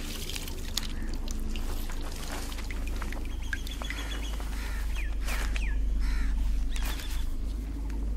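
Birds calling and chirping in short, scattered notes, some sliding in pitch, over a steady low rumble that grows louder about two seconds in.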